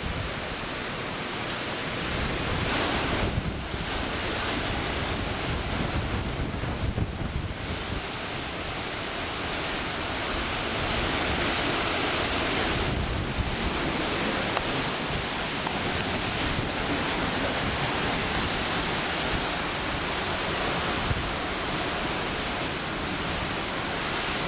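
Hurricane winds blowing hard and steadily, rising in gusts several times and easing again, with wind buffeting the microphone.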